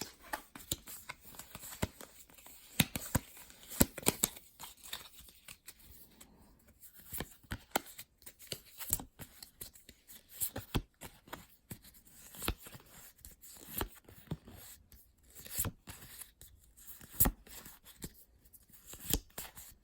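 Pokémon card booster packs being torn open and the cards handled and flicked through: an irregular run of short, sharp crinkles and clicks.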